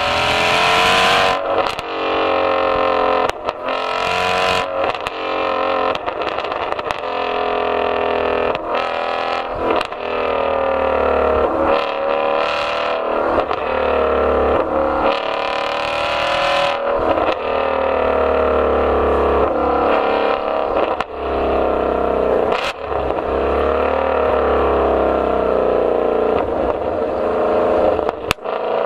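Ford Mustang Shelby GT350R's 5.2-litre flat-plane-crank V8 accelerating hard through the gears of its six-speed manual. The engine note climbs and then drops sharply at each upshift, many times over.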